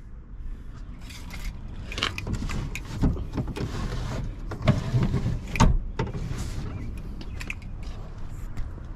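Handling noise at a car: several sharp knocks and clicks over rustling, the strongest about halfway through.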